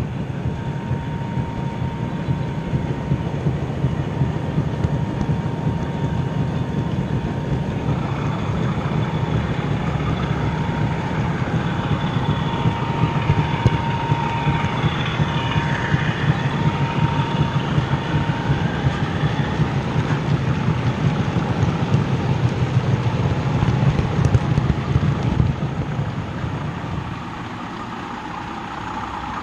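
OO gauge model trains running on the layout's track: a steady rumble of wheels and motors with a thin whine, dropping a little near the end.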